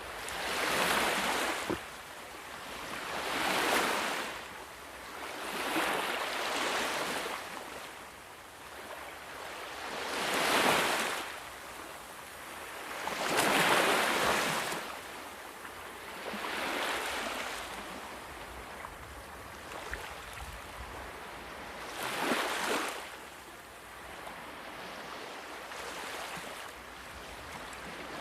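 Ocean waves breaking and washing up on a shore: a swell of hissing surf every few seconds, about seven in all, with a calmer lull near the middle and again towards the end.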